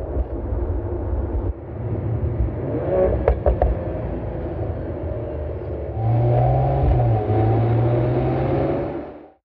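Mercedes-AMG CLE 53's 3.0-litre turbocharged inline-six engine running as the car drives, its pitch gliding with a few sharp cracks about three seconds in. From about six seconds in a louder, steady engine note, which cuts off suddenly near the end.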